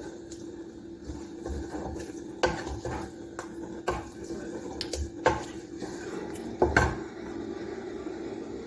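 Metal spoon clinking, knocking and scraping against a karahi or cooking pot in irregular strokes, a few sharper knocks standing out, over a steady low hum.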